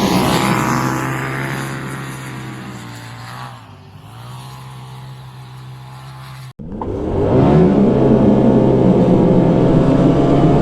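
2020 Polaris RZR Pro XP turbo engine, exhaling through a catless sport muffler, running hard. It fades and drops in pitch over the first few seconds. After a sudden break about six and a half seconds in, it comes back loud with a rising pitch under hard acceleration and holds at high revs.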